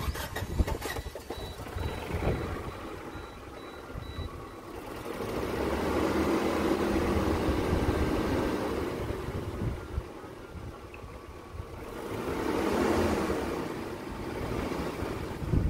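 A 1996 Geo Tracker's four-cylinder engine is started and runs, swelling louder twice for a few seconds as it revs, on a test run of a newly fitted clutch cable. A high beeping chime sounds during the first few seconds.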